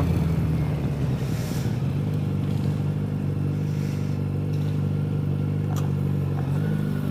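Motorcycle engine idling steadily, with one short click near the end.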